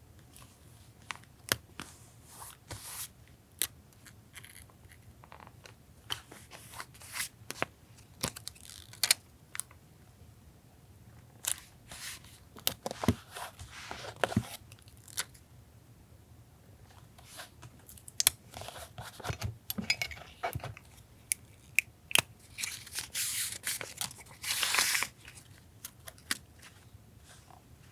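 Paper and stickers being handled for collage journaling: irregular taps and clicks, with stretches of paper rustling and tearing, the longest and loudest near the end.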